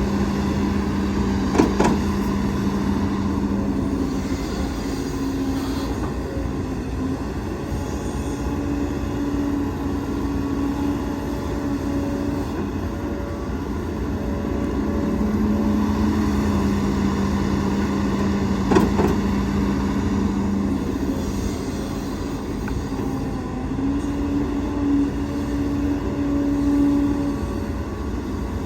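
Heavy diesel earthmoving machinery running, its engine note stepping up and down every few seconds as it works. Two sharp knocks, one near the start and one about two-thirds of the way through.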